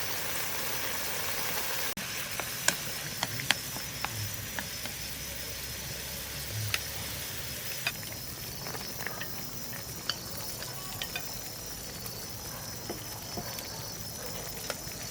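Food sizzling in a pan: a steady hiss with scattered sharp clicks and ticks, the strongest clicks between about 2.5 and 4 seconds in.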